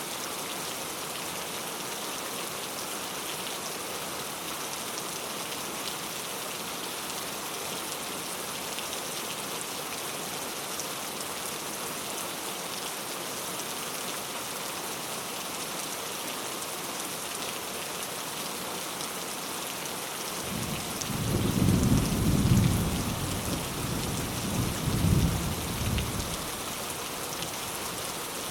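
Heavy rain falling on mango leaves, a steady even hiss. About twenty seconds in, a low rumble of thunder swells for about six seconds, peaking twice, then fades back under the rain.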